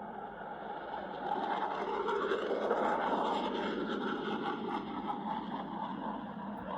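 F-22 Raptor jet fighter passing in a display, the roar of its two Pratt & Whitney F119 turbofans swelling from about a second in, peaking, then easing off.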